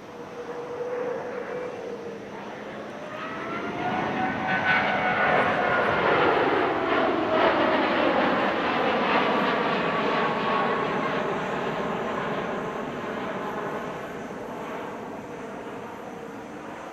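Twin-engine jet airliner flying past. The engine noise builds over a few seconds, is loudest near the middle, then fades, while its whine slides slowly down in pitch as it passes.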